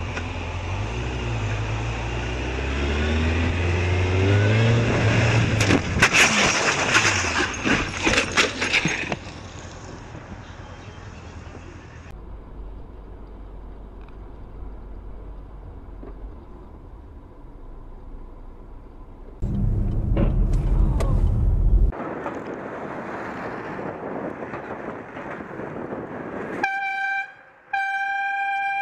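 Car driving noise, engine and road rumble, with a cluster of sharp knocks about six seconds in, then two short car horn honks near the end.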